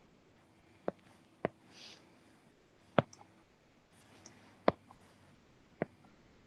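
A computer mouse clicked five times, sharp single clicks at uneven intervals, with a faint soft rustle about two seconds in.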